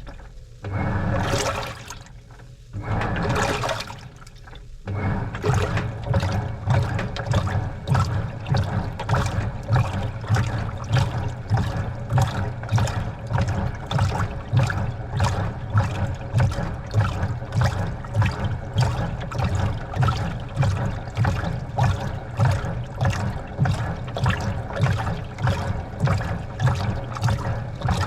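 Washing machine mid-wash, water swishing in the drum. Three separate surges of water come in the first five seconds, then a steady, rhythmic sloshing of about two beats a second as the machine agitates the wet load.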